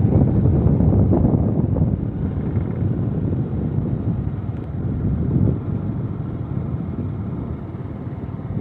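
A vehicle running, with wind buffeting the microphone: a steady, dense low noise.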